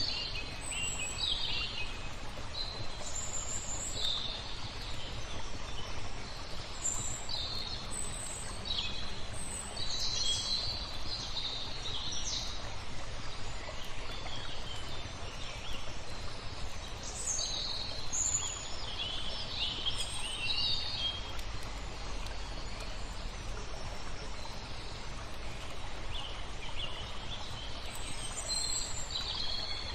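Small songbirds chirping in quick clusters of short, high notes, with lulls between them, over a steady low rush of water.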